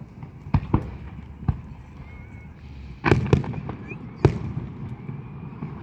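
Fireworks going off: two bangs near the start, another about a second and a half in, a quick cluster of several around three seconds, and one sharp, loudest bang just past four seconds.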